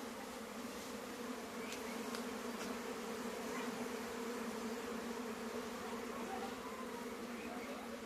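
Honeybees from a natural hive buzzing in a mass: a steady, even drone with a pitch of a few hundred hertz and an overtone above it, with a few faint ticks about two seconds in.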